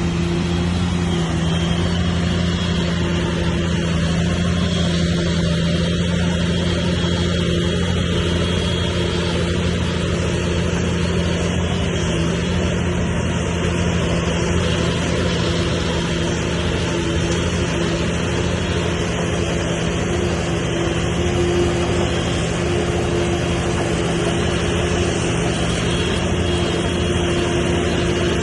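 Heavy diesel engine of earthmoving machinery running steadily at a constant pitch.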